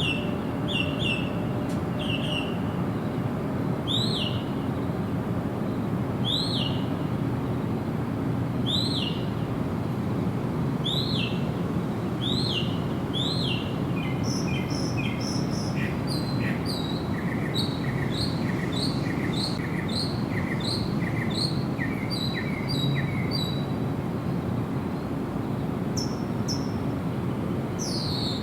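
Birds calling: short, high, repeated chirps a couple of seconds apart, turning at about the halfway point into a quicker run of chirps at two pitches, over a steady background noise.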